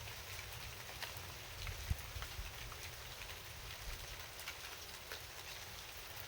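Rain falling steadily, with many individual drops ticking sharply and irregularly, and one louder low knock about two seconds in.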